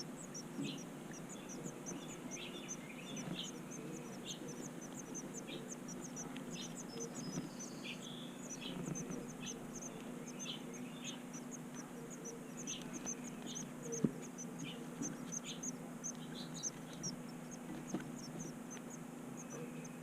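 Birds chirping outdoors: an even, rapid series of short high chirps, about three a second, runs throughout, with scattered lower chirps in between. A single sharp click comes about two-thirds of the way through.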